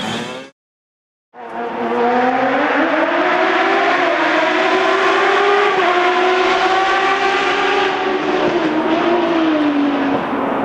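Racing motorcycle engine running hard on a hill climb, its pitch rising and falling as it accelerates and eases off. The sound cuts out about half a second in and comes back about a second later.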